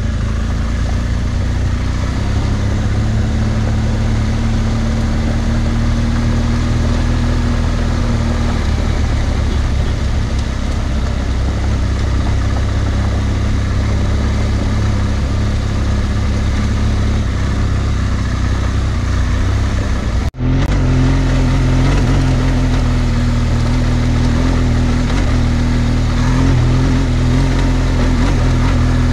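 BMW R1200GSA's flat-twin boxer engine running steadily as the motorcycle climbs a gravel track, with a constant rush of wind and tyre noise. The sound drops out for an instant about two-thirds of the way through, and afterwards the engine note sits a little higher.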